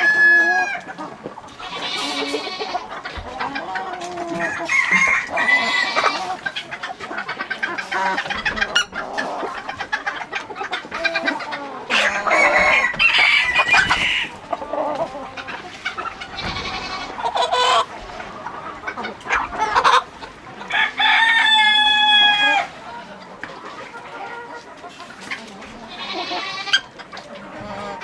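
A flock of free-range chickens clucking and calling, with several long drawn-out calls among the shorter clucks.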